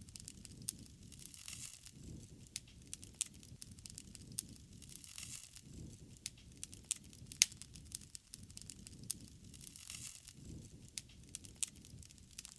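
Wood fire crackling, with sharp irregular pops and snaps over a low rushing sound that swells and fades every few seconds.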